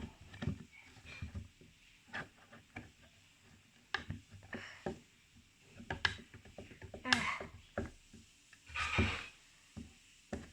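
Scattered light clicks, taps and scraping from handling and colouring a small wooden birdhouse, with a couple of longer rubbing strokes about seven and nine seconds in.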